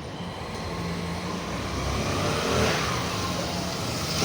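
A motor vehicle's engine going by on a road, growing louder to a peak a little past halfway, then easing off slightly.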